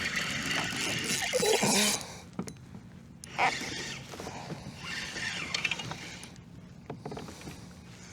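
Irregular splashing and handling noise as a hooked fish is brought alongside and into a fishing kayak, loudest in the first two seconds with shorter bursts later, over a steady low hum.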